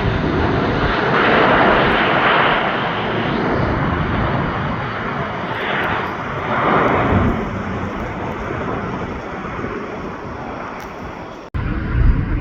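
Jet airliner engine noise as an aircraft passes, swelling and slowly fading. Near the end it cuts off abruptly and a louder low rumble starts.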